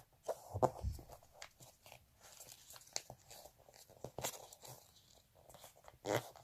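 Sheet of colour paper being folded and creased by hand: irregular soft crinkles and rustles, with a few sharper crackles.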